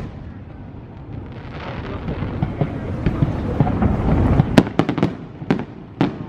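Fireworks display: a low rumble of booming shells swells over the first few seconds, then a quick run of sharp crackling bangs starts about four and a half seconds in.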